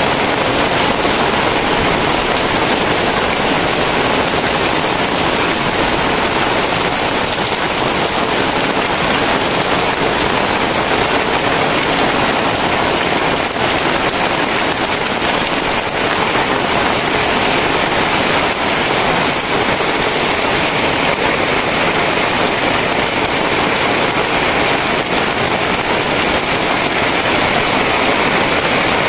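Very heavy rain pouring down in a loud, steady downpour, with no breaks or separate hits standing out.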